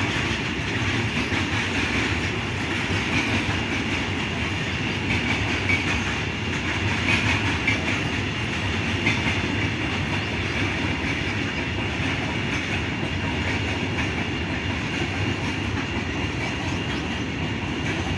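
Train wagons rolling steadily along the track: a continuous rumble of wheels on rails that does not break or change.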